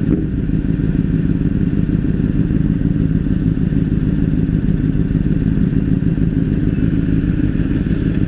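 Motorcycle engine running steadily while being ridden at a constant pace, a continuous low drone with no revving or shifting.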